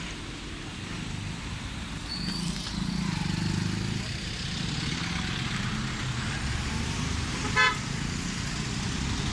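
Road traffic running steadily, with one short vehicle horn toot about seven and a half seconds in.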